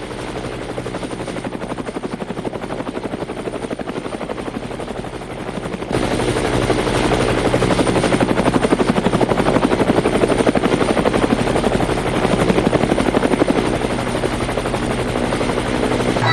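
Display-team helicopters flying past with a fast, steady rotor chop and turbine whine, getting louder about six seconds in as they come closer.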